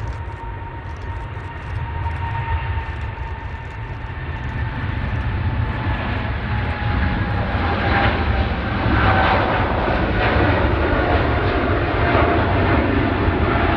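Jet airliner's engines passing, with a thin whine that slowly falls in pitch over a low rumble, growing louder through the second half.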